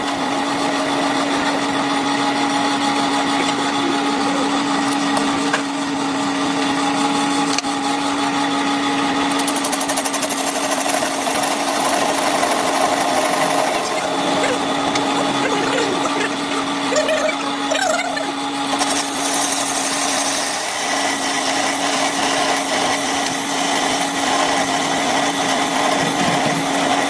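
Workshop power tool running steadily, with a steady hum through the first half and a high whine that joins for several seconds in the middle.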